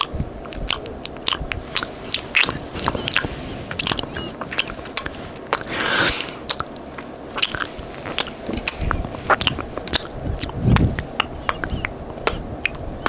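Close-miked ASMR mouth sounds: sticky, wet kisses and lip smacks in a fast, irregular run of clicks and pops.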